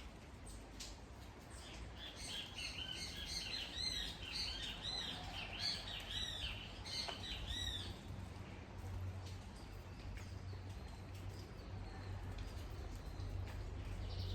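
A songbird singing a quick series of repeated, arching chirps for about six seconds, over the steady hiss and low rumble of rainfall.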